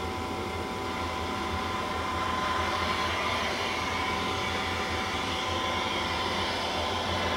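A microwave oven sound effect playing from a phone's speaker: a steady running hum with a faint whine.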